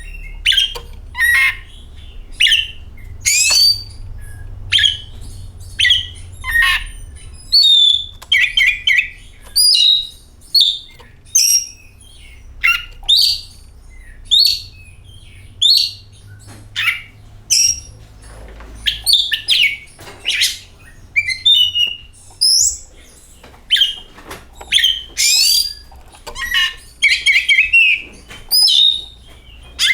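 Oriental magpie-robin (kacer) singing: loud, short whistled and scratchy phrases about once a second, separated by brief pauses, over a low steady hum.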